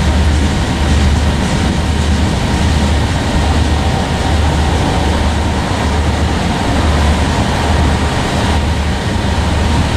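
Freight train cars rolling past, steel wheels on the rails, with a steady heavy noise and a low rumble that swells and dips about once a second.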